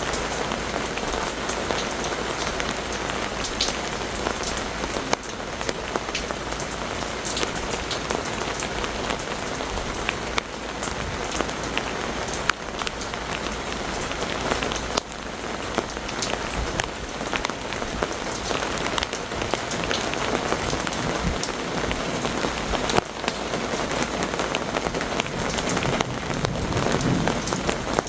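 Heavy thunderstorm rain pouring steadily, with many sharp individual drops tapping close by.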